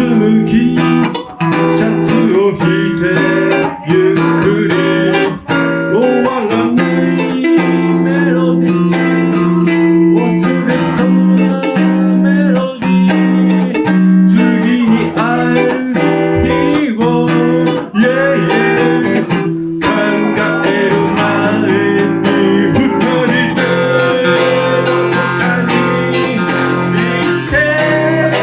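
Electric guitar played solo in a blues style, a Van Zandt Telecaster through a Roland JC-120 amp: a run of picked single notes with bends over held bass notes.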